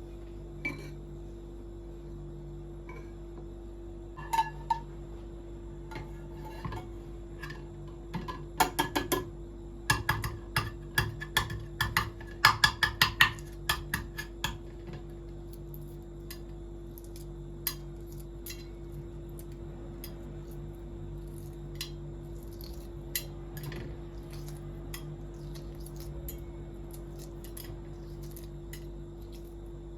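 Dishes and glassware clinking and knocking in a kitchen, with a quick flurry of ringing clinks in the middle, over a steady low hum.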